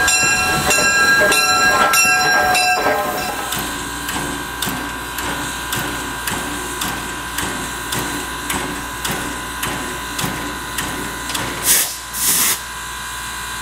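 Steam locomotive 610, a 2-8-0 Consolidation, chuffing in an even rhythm of about two beats a second over a steady high whine. The beats are louder for the first three seconds, then carry on more softly. Near the end come two short, sharp hisses of steam.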